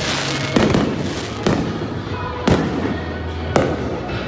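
Aerial fireworks going off: a crackling burst at the start, then four sharp bangs of exploding shells, about a second apart, each with a rumbling echo.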